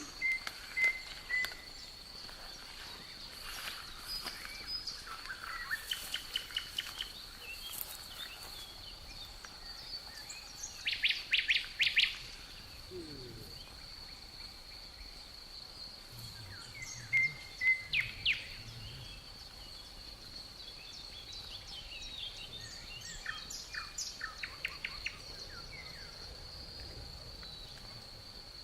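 Forest ambience: a cricket's steady high trill runs underneath while songbirds chirp and sing in short bursts of quick notes, the loudest about a third and again about two-thirds of the way through.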